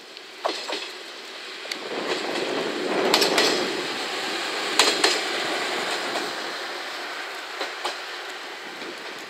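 A JR Shikoku 1500-series single-car diesel railcar passing. Its rolling noise grows to a peak about three to five seconds in, then eases away. Pairs of sharp clicks come four times as the wheelsets cross rail joints.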